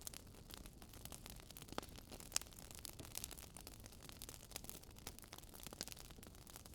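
Wood fire crackling: irregular faint pops and snaps over a low hiss, with one sharper pop about two and a half seconds in.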